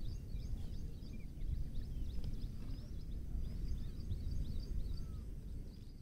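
Many small birds chirping, short high calls overlapping in quick succession, over a steady low rumble of outdoor noise that is the loudest part of the sound.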